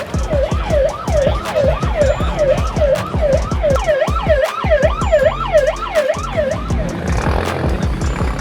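A fast rising-and-falling siren wail, about two and a half sweeps a second, over a steady thumping beat.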